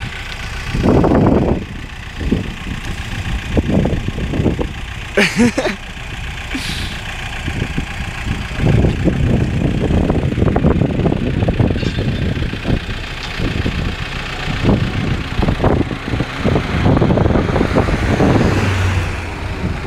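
Car engines revving and accelerating hard as the cars pull away side by side. The engine noise swells and drops back several times.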